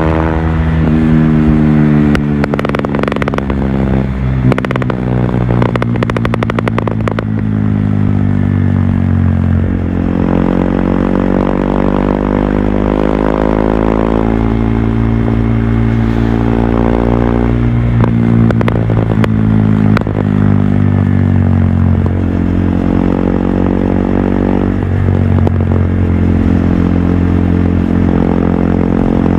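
Stage II-modified KTM RC 390's single-cylinder engine under way, revving up and dropping back again and again as the bike accelerates, shifts and rolls off. A run of sharp crackling clicks sounds over the engine during the first several seconds.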